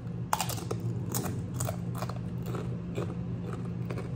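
Biting into and chewing a crunchy tortilla chip: a run of irregular crisp crunches, dense in the first couple of seconds and thinning out toward the end.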